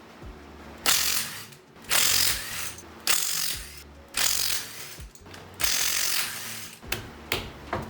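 A wrench ratcheting and rattling as lug bolts are loosened to take a wheel off. There are five loud bursts, each under a second long and about a second apart, then two short clicks near the end.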